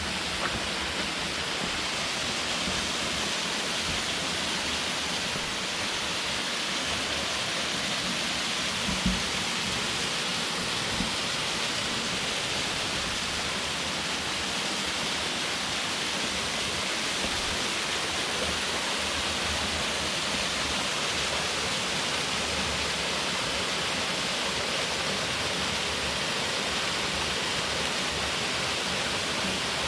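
Steady rushing of a waterfall cascading into a rocky valley pool, with one brief low thump about nine seconds in.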